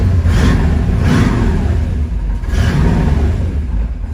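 1963 Corvette's 340-horsepower 327 V8 running just after a cold start, its revs swelling and falling several times. The engine is ice cold.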